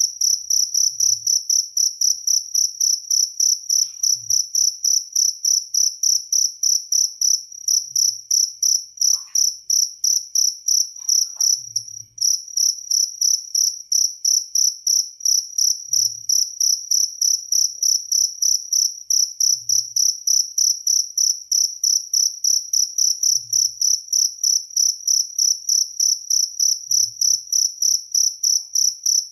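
Jaliteng cricket chirping on and on, a high-pitched pulse repeating evenly about four times a second, with a brief break about twelve seconds in.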